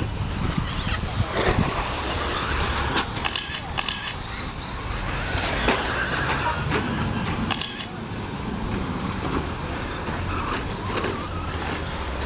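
Radio-controlled 1/10-scale short-course trucks racing on a dirt track: a steady mix of high motor whine and tyre and chassis noise, with a few sharp clacks from landings or hits, clearest about three seconds in and again past seven seconds.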